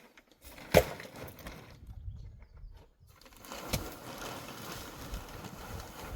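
A sharp knock under a second in and a second, weaker knock about three seconds later, followed by a steady rustling noise.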